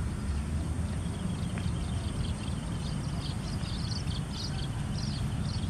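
Munia chicks begging while being fed: a rapid run of short, high chirps that starts about a second in and grows busier, over a steady low rumble.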